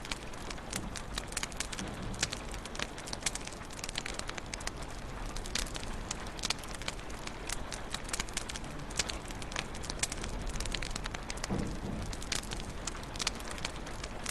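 Wood fire crackling in a fireplace: dense, irregular sharp pops and snaps over a steady hiss.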